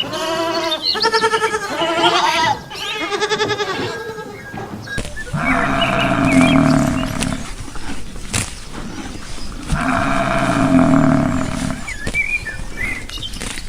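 Farm animals calling: a quick run of short, wavering bleat-like calls, then, after a cut, two long, loud calls a few seconds apart, with faint chirps between them.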